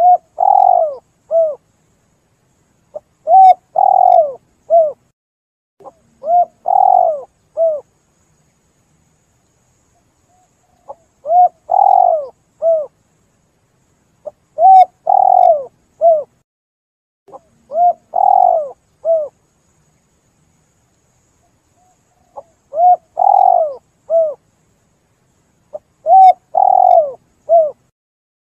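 Spotted dove (tekukur) cooing in a clean recording, each call a short phrase of a few swooping notes. The calls come about every three seconds in runs of three, with longer pauses between runs and dead silence between calls. It is the kind of call played to lure wild spotted doves.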